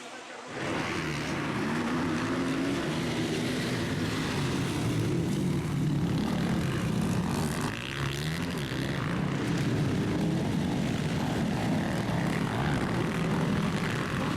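Several motocross bikes racing on the track, their engines revving up and down as the riders work the throttle, coming in abruptly about half a second in.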